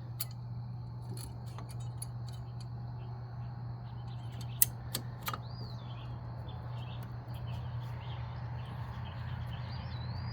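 Scattered sharp metallic clicks and clinks of brake parts and tools being handled, with one much louder click a little under halfway through, over a steady low hum. A bird chirps faintly a couple of times.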